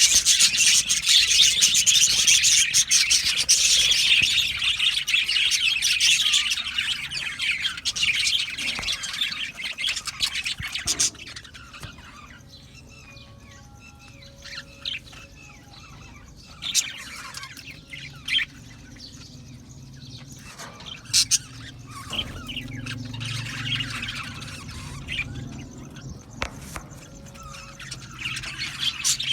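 A colony of budgerigars chattering and chirping, a dense, loud chorus for the first ten seconds or so, then thinning out to scattered chirps and squawks.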